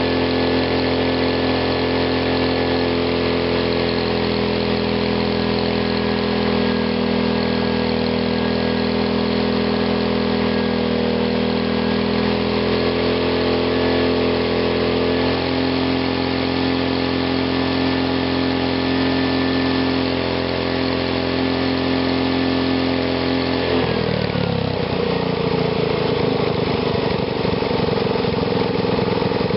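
Gasoline engine fed through a GEET plasma fuel reformer, running steadily at raised speed, then its revs drop sharply about 24 seconds in and it settles into a steady idle.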